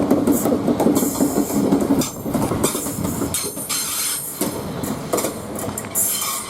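Southeastern Class 395 high-speed electric multiple unit departing, with a steady hum for the first two seconds, then its wheels clicking and squealing on the rails.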